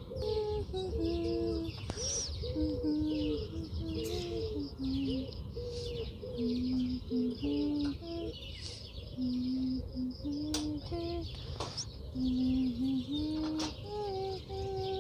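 Many small birds chirping and twittering throughout, over a slow melody of held notes that step up and down.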